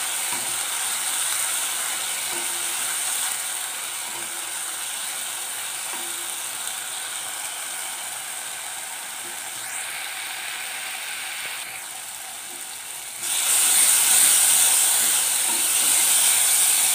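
Onion-tomato masala gravy sizzling in oil in a kadhai, a steady crackling hiss, with a spatula stirring it now and then; the oil has separated from the gravy, the sign that the masala is cooked through. The sizzle gets louder about thirteen seconds in.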